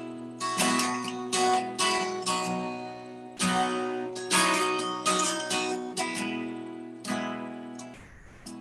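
Acoustic guitar strummed in an instrumental passage of a song, chord after chord ringing out, softening near the end.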